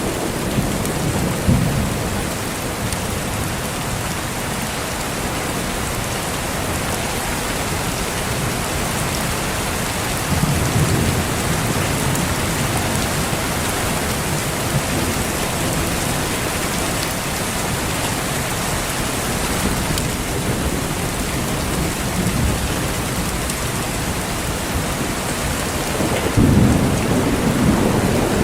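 Steady heavy rain falling, with low rumbles of thunder swelling up near the start, again around the middle, and most strongly near the end.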